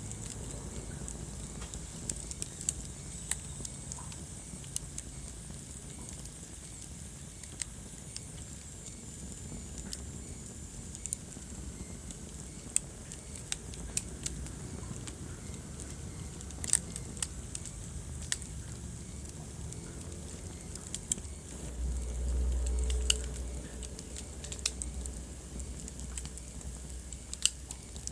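Wood fire burning in a fireplace: irregular sharp crackles and pops over a low rumble of the flames, which swells briefly about three-quarters of the way through.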